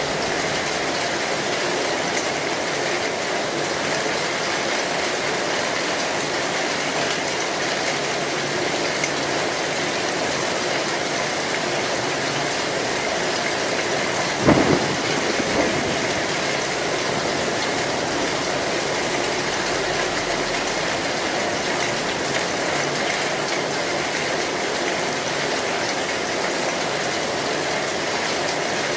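Heavy rain falling steadily on an old metal (zinc) roof, with a brief, louder crack about halfway through.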